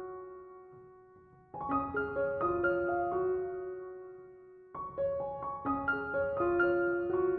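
Background piano music: soft phrases of several notes, each fading away before the next phrase begins.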